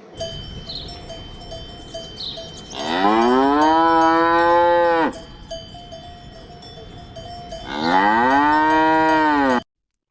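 Cows mooing: two long moos about five seconds apart, each rising in pitch and then held. A faint bell-like tone repeats in the background.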